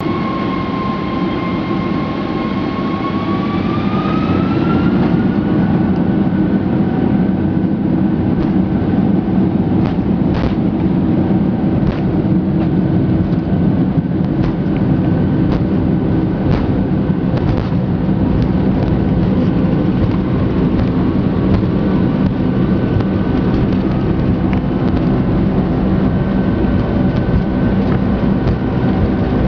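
Boeing 747-400 jet engines spooling up to takeoff thrust: a whining tone rises in pitch about four seconds in over a steady loud rumble, then holds level. A scatter of short knocks and rattles follows during the takeoff roll.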